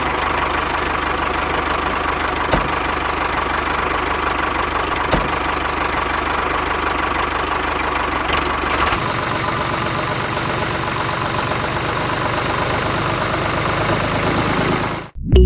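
A small machine running steadily: a continuous mechanical running noise with a low hum. The sound changes slightly about nine seconds in.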